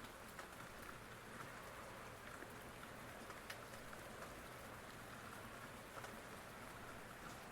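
Steady, faint rain falling, an even hiss with scattered drops ticking and now and then a sharper drop.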